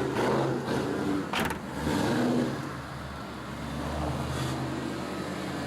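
Straight-piped Ford Mustang GT V8 with long-tube headers running as the car comes up the road. The engine swells twice in the first few seconds, then settles to a steadier drone.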